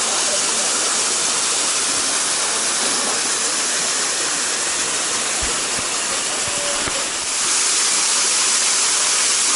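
Steady rush of whitewater, the noise of a river rapid or cascade, getting a little louder and hissier about seven seconds in.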